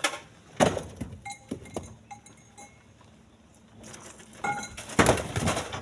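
Split stones being thrown into a truck's bed, landing with a series of heavy knocks and clanks: a few in the first two seconds and a loud cluster near the end, with brief ringing tones between them.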